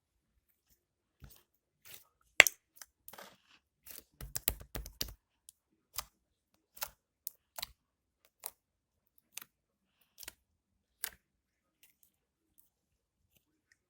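Slime being squeezed and poked by hand: a run of sharp sticky clicks and pops, thickest about four to five seconds in, then single pops roughly once a second.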